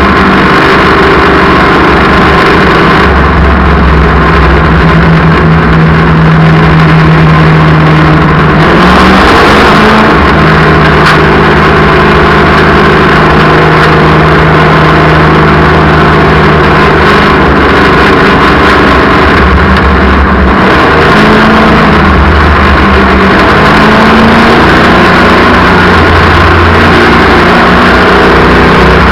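Race car engines running at speed around an oval track, loud and continuous, with the engine pitch shifting up and down as the cars circulate.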